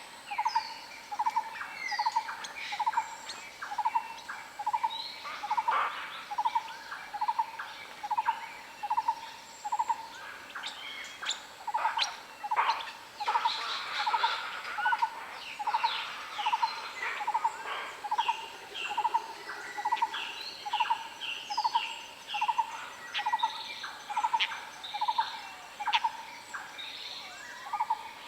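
Forest birds calling. One bird repeats a single short note about twice a second without a break, while other birds add higher chirps and whistles over it.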